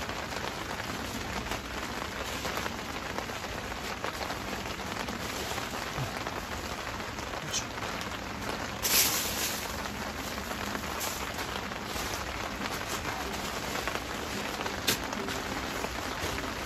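Steady rain pattering on the tent's fabric, heard from inside the tent. About nine seconds in there is a brief louder burst of noise, with a few short clicks elsewhere.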